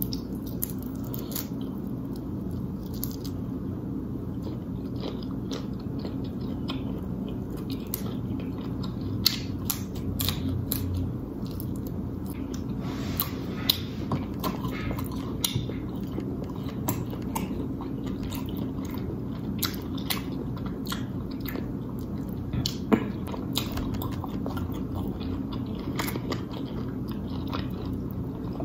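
Wet chewing and lip-smacking of someone eating seafood boil, with many short, sharp mouth clicks over a steady low hum. Near the start, a shrimp is peeled by hand.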